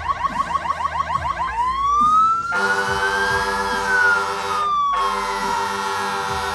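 Fire engine sirens switching from a fast yelp, about six cycles a second, to a slow rising and falling wail. A steady horn-like tone sounds over them from about two and a half seconds in, breaking off briefly near the five-second mark.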